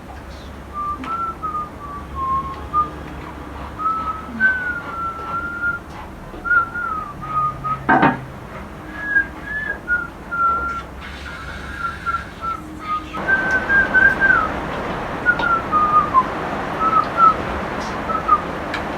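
A person whistling a wandering tune in short notes. There is a single sharp knock about eight seconds in, and a steady hiss sets in about two-thirds of the way through.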